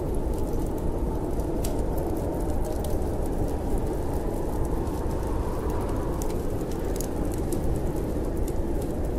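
Fireplace crackling with frequent small, sharp pops over a steady low rush of wind.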